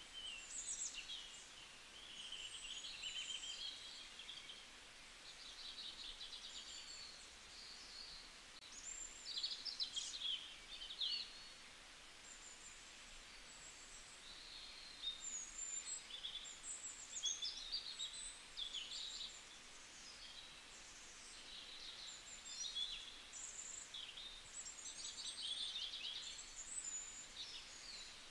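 Birds chirping and singing: many short trills and whistled notes, overlapping one another with hardly a pause.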